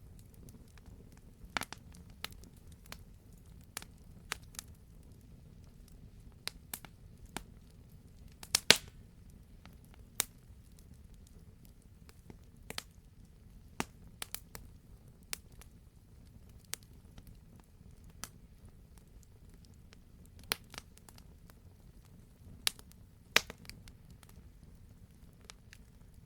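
Wood fire crackling in a fireplace: scattered sharp pops and snaps at irregular intervals over a low steady rumble of the burn, with the loudest pop about nine seconds in.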